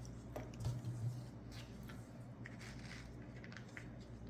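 Sheet of paper rustling and crinkling in the hands as it is folded and creased, a string of short soft crackles over a low steady hum.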